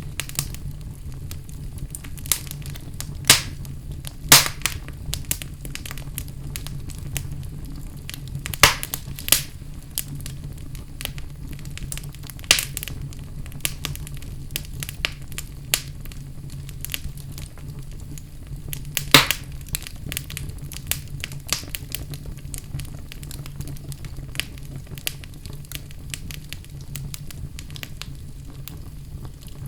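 Wood fire burning in a fireplace: a steady low rumble of flames with scattered sharp crackles and pops, the loudest about four seconds in and a little past halfway.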